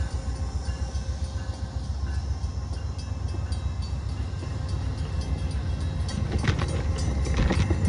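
Amtrak passenger cars rolling past on the track, a steady heavy low rumble, with sharp clacks near the end.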